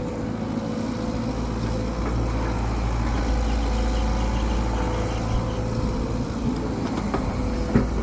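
Engine running steadily, with a few sharp knocks near the end.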